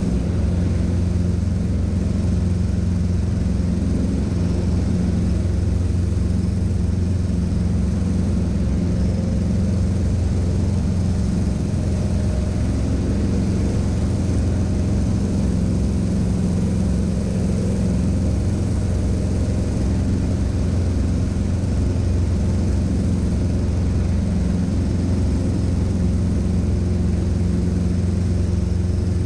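Cessna 150's four-cylinder Continental O-200 engine and propeller running steadily at constant power, a low, even drone heard from inside the cockpit.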